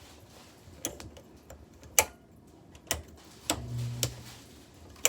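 Haier 5,200 BTU window air conditioner clicking, about six sharp clicks at uneven intervals, with a brief low electrical hum between two clicks about three and a half seconds in. The compressor has not kicked on.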